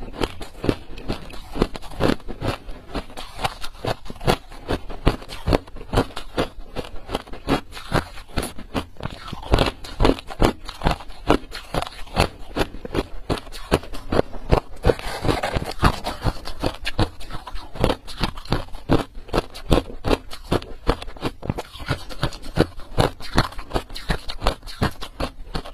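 Close-up biting and chewing of ice: a dense, irregular run of sharp cracks and crunches, several a second, as the ice is crushed between the teeth.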